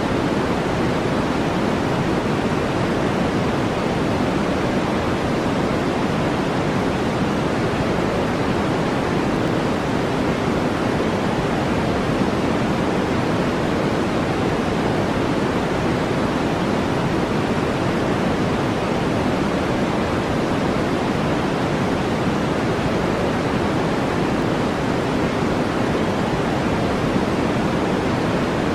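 Steady synthetic brown noise: an even, deep hiss that never changes.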